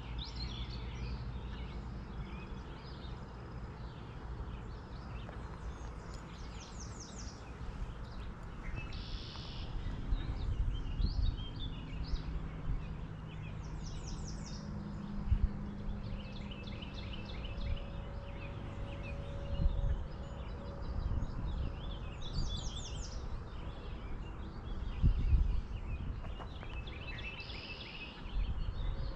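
Songbirds calling around the water, many short repeated chirps and quick trills, over a steady low outdoor rumble with a few soft bumps.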